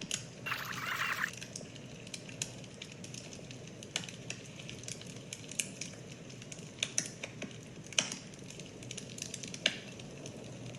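Irregular crackling clicks over a faint steady background, with a short hiss lasting under a second about half a second in.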